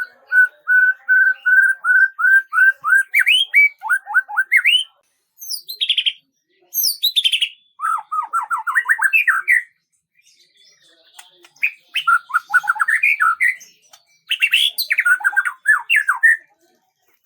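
A songbird singing: a rapid run of short repeated notes, then several fast phrases of quick rising and falling notes with short pauses between them.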